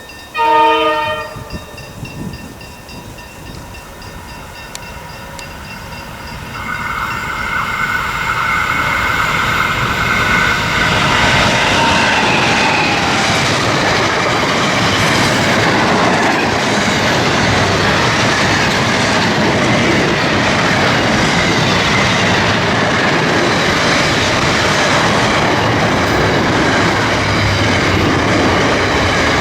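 A diesel freight locomotive's horn sounds one short blast, then the train approaches and passes. The locomotive's whine drops in pitch as it goes by, and the loud, steady clatter of wagons on the rails builds up and carries on.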